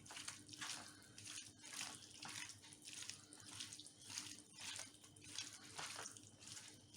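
Soft, wet squelching of raw chicken pieces being mixed into a thick, wet spice-and-egg marinade, about two squishes a second.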